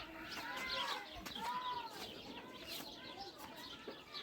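Farmyard animals calling: a string of short calls that rise and fall in pitch, in the manner of hens clucking, among goats and sheep.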